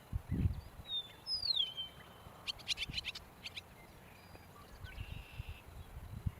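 Eastern meadowlark giving one clear, slurred whistle that slides downward, followed about a second later by a rapid chatter of about eight sharp notes. Low thumps sound at the start and near the end.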